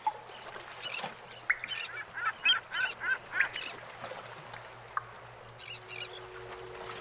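A bird calling: a quick run of short, harsh pitched calls a couple of seconds in, then a few fainter calls near the end.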